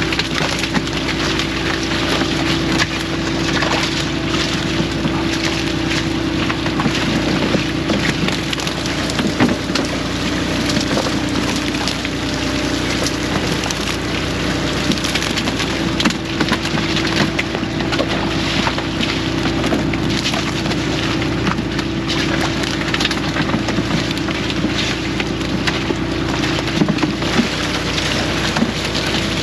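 Fishing boat engine running steadily as a low hum, under a dense, constant crackle of small clicks and knocks.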